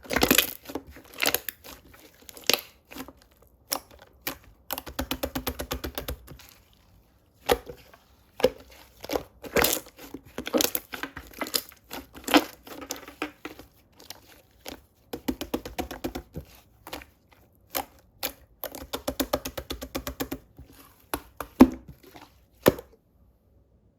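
Close-up crinkling, tearing and clicking handling sounds, with two stretches of fast, even crackling, one about five seconds in and one near the end.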